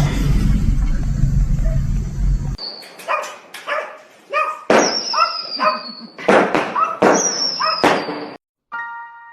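A steady low rumble that cuts off suddenly, followed by a dog barking and yelping in a quick run of short, sharp calls, some with a high, falling squeal. A few musical notes sound near the end.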